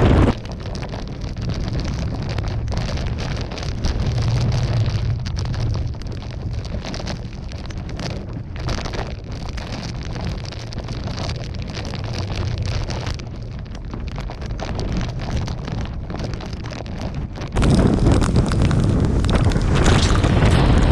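Typhoon wind buffeting the microphone with a low rumble that rises and falls in gusts, with rain. About three-quarters of the way through it jumps suddenly to louder wind and rain.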